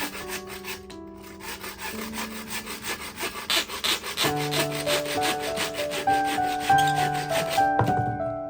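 Rapid rhythmic scraping, about five strokes a second, starting about a second in and stopping near the end, over background music with held notes.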